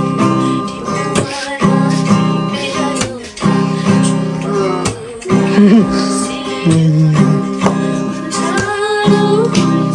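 Acoustic guitar strumming chords in a steady rhythm, with a voice singing along in places.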